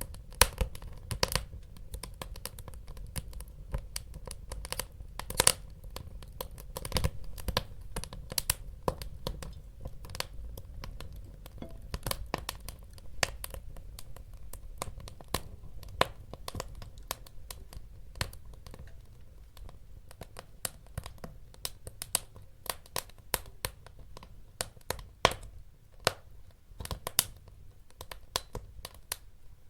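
Wood fire crackling and popping, with sharp irregular snaps over a low, steady rumble of burning.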